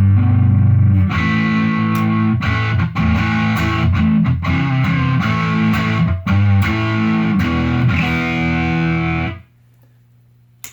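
Electric Telecaster fitted with Seymour Duncan Hot Rails pickups, played with distortion through an amp: a riff of picked notes and chords that stops about nine seconds in. After it stops, a faint low amp hum is left, and there is a short click near the end.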